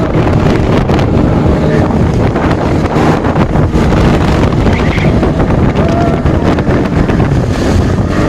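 Wind buffeting the microphone on a speeding motorboat, with the boat's engine running underneath.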